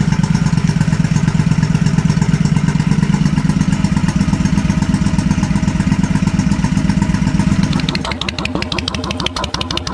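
Honda Shadow V-twin motorcycle engine idling steadily, then switched off about eight seconds in, its firing slowing and faltering as it runs down to a stop.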